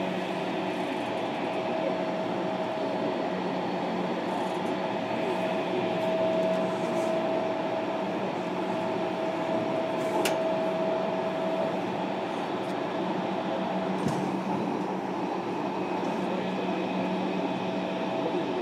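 Running noise of a JR Kyushu 305 series electric multiple unit, heard from inside a motor car above the brake controller as it runs through a subway tunnel. There is a steady rumble of wheels on rail with a steady high hum that fades about two-thirds of the way through, and one sharp click about ten seconds in.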